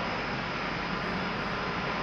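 Steady rumble and hiss of a covered railway station platform, with an electric multiple unit running in on a far platform.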